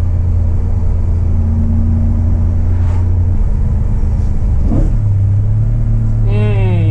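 BMW E92 M3's S65 V8 engine and road noise heard from inside the cabin while driving: a loud, steady low drone that steps up slightly in pitch about five seconds in.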